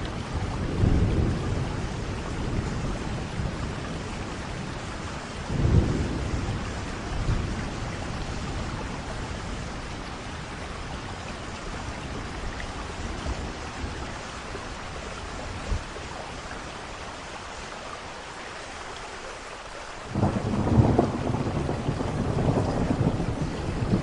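Thunderstorm: steady rain falling, with rolls of thunder rumbling in near the start, again about five seconds in, and a louder roll from about twenty seconds in.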